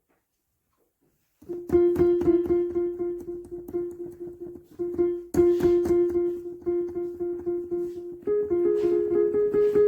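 Piano playing one note struck quickly over and over, about three to four times a second, starting about a second and a half in after silence. Near the end the repeated note steps up to a slightly higher pitch.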